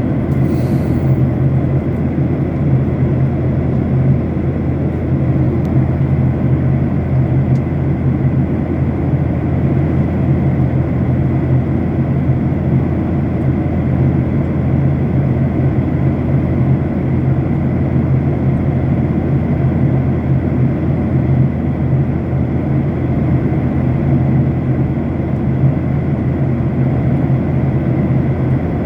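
Steady drone of an airplane's engines and airflow heard inside the passenger cabin in flight, with a constant low hum.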